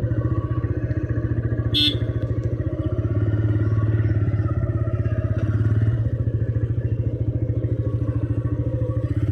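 Motorcycle engine running steadily, with a fast, even beat of firing pulses and slight swells in level. A short high-pitched chirp sounds about two seconds in.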